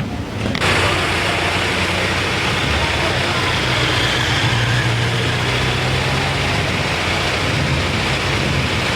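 A car engine running steadily at idle, a low hum under a strong, even hiss.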